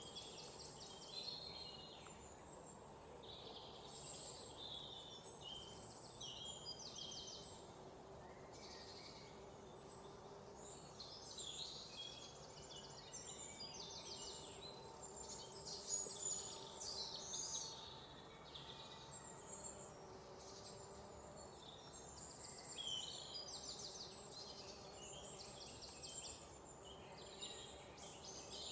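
Many small birds chirping and trilling together, in overlapping calls that come and go, over a faint steady background hum.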